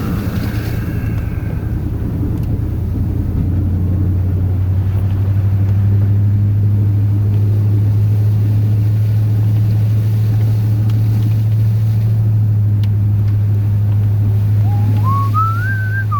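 Steady low drone of a Chevrolet pickup's 8.1-litre Vortec big-block V8, heard from inside the cab while pushing snow with a plow; it grows a little stronger a few seconds in. Near the end a few short rising tones climb in steps.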